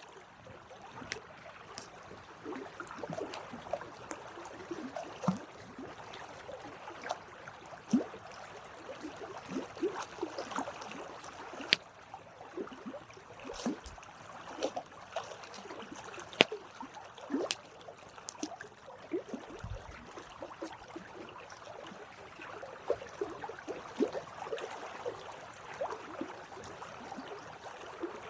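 Wood campfire burning: irregular crackles and sharp pops over a steady hiss of flames.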